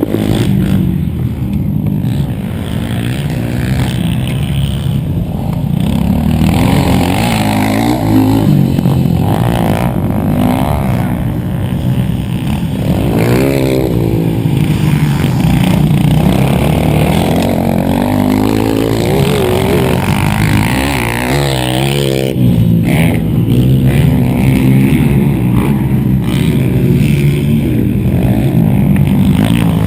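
Dirt bike engine revving hard, its pitch climbing and dropping over and over as the throttle is opened and shut.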